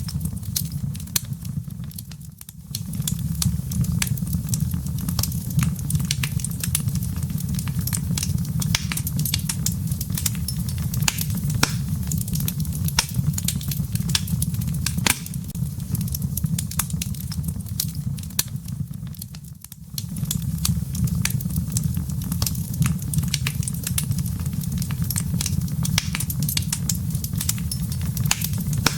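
Wood fire crackling in a fireplace: a steady low rumble of flame under a dense run of sharp pops and snaps from the burning logs. The low rumble briefly drops away twice, about two seconds in and again near twenty seconds.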